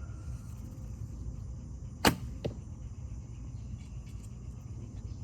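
A 51-pound Bear Kodiak recurve bow with an 8125 string and cat-whisker silencers is shot. One sharp crack of the string about two seconds in, then a fainter knock about half a second later.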